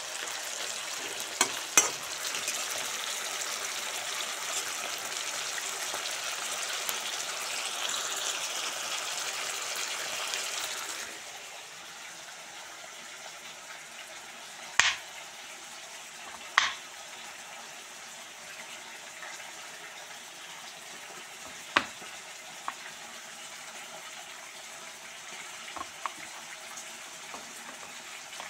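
Mutton and onions sizzling as they fry in a metal karahi, with a few clicks of a metal spatula against the pan as they are stirred; the sizzling cuts off suddenly about 11 seconds in. After that, a handful of sharp, single knocks of a knife on a wooden chopping board, cutting garlic cloves, over a faint steady hiss.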